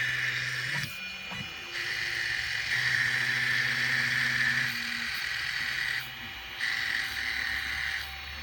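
5015 radial blower fans running with a noisy, rattling whir, the sound of cheap fans that have gone noisy after a few days of use. The sound dips briefly about a second in and again around six seconds in.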